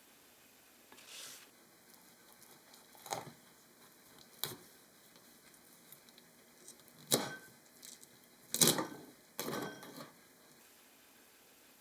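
A handful of short scrapes and knocks from something being handled, separated by quiet, with the loudest about seven and nine seconds in.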